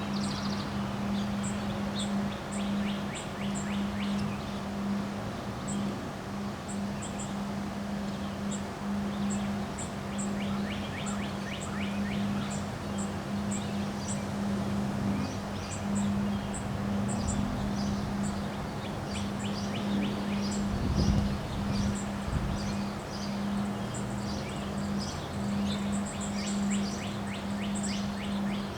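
Birds chirping and trilling repeatedly over a steady low hum and wind noise, with a stronger low gust about two-thirds of the way through.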